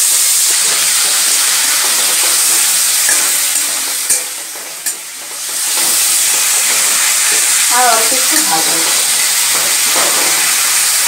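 Prawns sizzling as they fry lightly in hot mustard oil in a kadai, stirred and turned with a spatula that scrapes the pan. The sizzle dips for a moment about halfway through.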